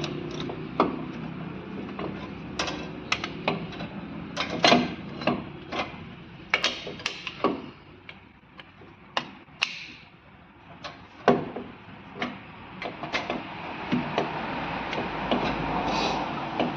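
Irregular metallic clicks and knocks of rear drum brake parts (wheel cylinder and brake shoes) being handled and fitted onto the backing plate by hand, with a few sharper knocks.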